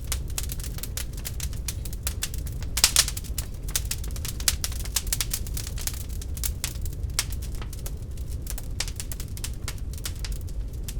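Wood fire crackling in a fireplace: irregular sharp snaps and pops over a low steady rumble, with a louder pop about three seconds in.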